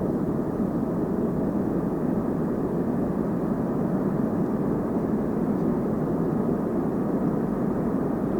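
Steady rolling roar of a train passing, with no horn or distinct clanks.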